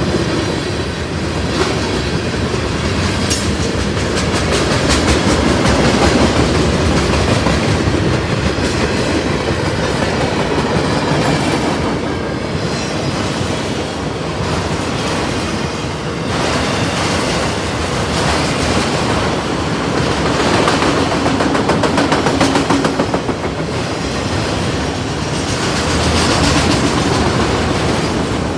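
Train cars rolling past close by, with a steady rumble and the rapid clickety-clack of wheels over the rail joints.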